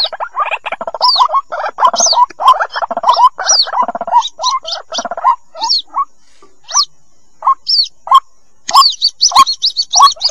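White-breasted waterhen chicks calling: rapid, overlapping short cheeping calls with high down-slurred squeaks mixed in. The calls thin out a little past halfway and crowd together again near the end.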